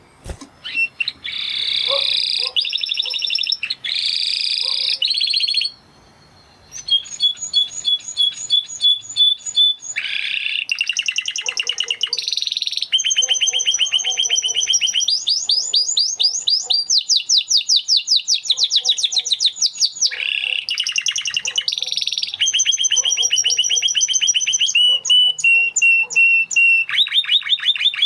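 Spanish Timbrado canary singing: a run of trilled phrases, each a fast string of repeated notes at its own speed and pitch, with a short break about six seconds in.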